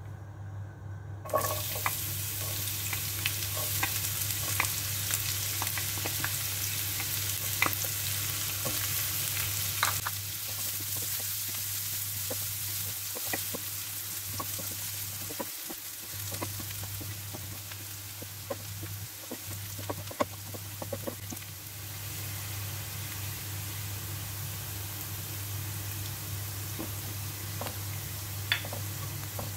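Chopped shallots hitting hot oil in a nonstick frying pan: a sudden sizzle about a second in, then steady frying while a wooden spatula stirs and clicks against the pan. A steady low hum runs underneath.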